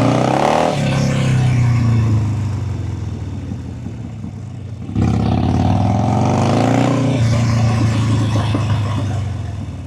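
Motorcycle engine revving up twice: each time the pitch climbs for about a second and then holds steady under throttle. The first run is cut off abruptly about five seconds in.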